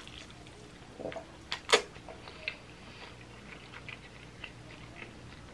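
Close-up eating sounds of a mouthful of spicy ramen noodles being chewed: soft, scattered wet mouth clicks and smacks, the sharpest a little under two seconds in.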